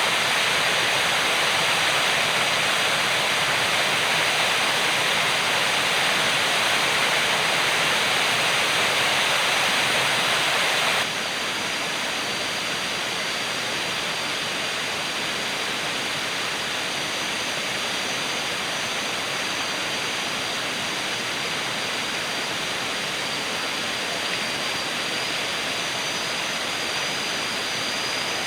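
Waterfall and stream water rushing in a steady, even wash. About eleven seconds in it drops suddenly to a somewhat quieter, duller rush. A thin steady high tone runs beneath throughout.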